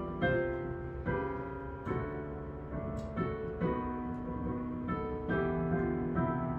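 Piano playing a gentle hymn introduction: sustained chords struck one after another, each ringing on and fading.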